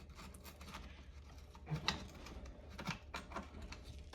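Light scattered clicks and taps as the plastic recoil cover and screws of a Homelite XL2 chainsaw are handled, with one louder click about two seconds in.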